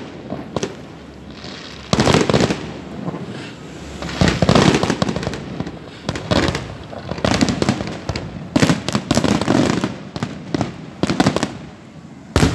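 An aerial fireworks display: shells bursting in a series of loud bangs, a new volley every second or two, some of them breaking into rapid runs of crackling pops.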